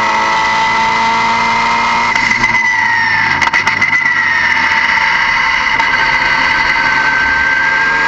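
Car engine running steadily with a strong high-pitched whine. About three seconds in the pitch drops, with a few sharp clicks, then holds steady again.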